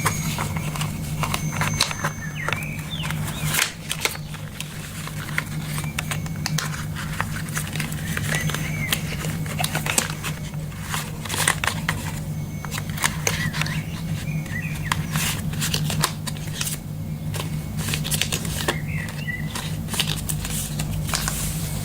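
Irregular taps, clicks and light handling noises, with occasional short bird chirps and a steady low hum behind them.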